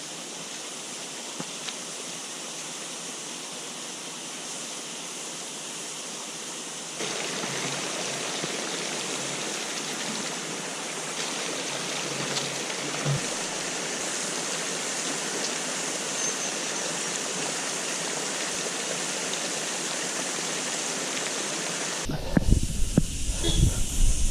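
Rushing water of a mountain stream or waterfall, a steady even rush that gets louder about seven seconds in. Near the end it gives way to low, uneven buffeting on the microphone.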